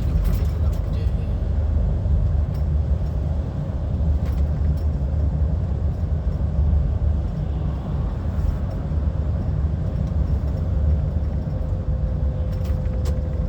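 Heavy goods lorry driving, heard from inside the cab: a steady low diesel engine rumble with road noise.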